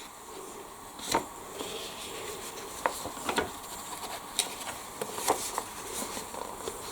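Scattered light rustles and taps, about half a dozen, from a paper instruction booklet being handled and its pages turned.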